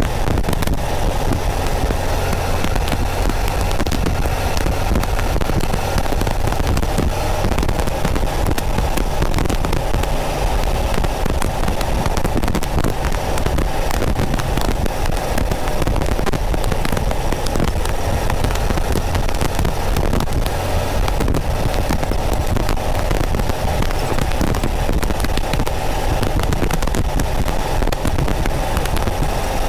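Porsche 914's 2.0-litre air-cooled flat-four engine running steadily at cruising speed, picked up close by a mic behind the rear window. A constant crackle of static and wind noise runs over it.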